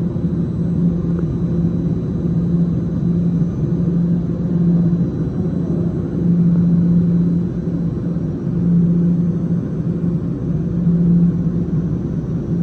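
TTC Line 1 subway train at a station platform: a steady low rumble with a low hum that swells and fades every second or so.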